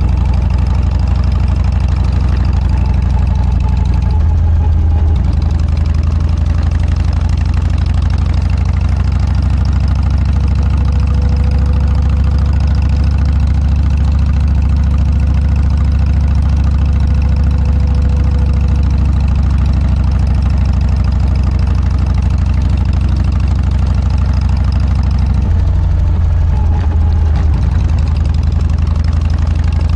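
Harley-Davidson Dyna V-twin engine running loud and steady through an aftermarket Motorstage muffler, with a deep exhaust note. The engine note changes briefly about four seconds in and again near the end.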